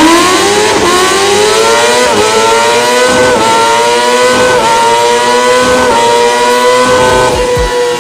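Kawasaki ZX-6R inline-four engine at hard acceleration, working up through the gears. The pitch climbs, dips briefly at each quick upshift about every second and a half, six shifts in all, and climbs more slowly in each higher gear.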